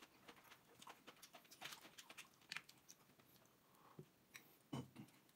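Faint close-up eating sounds: chewing and lip smacks on pickled cabbage and stewed pork rib, with scattered small clicks and a somewhat louder smack near the end.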